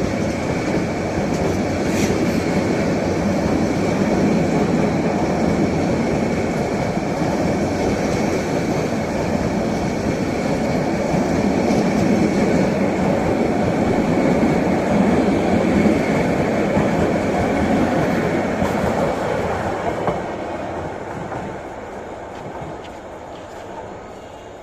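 Bangladesh Railway passenger train running on the rails: a steady rumble with a thin high wheel squeal above it, dying away over the last few seconds.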